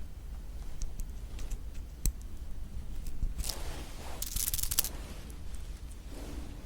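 Close-miked eating of a tough, chewy marshmallow pop: scattered small clicks, a sharp click about two seconds in, then two short tearing bursts about halfway through as the rubbery marshmallow is bitten and pulled.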